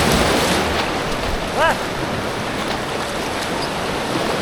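Steady rushing of creek whitewater heard from on the water, loud and even throughout, with a single shouted steering call about a second and a half in.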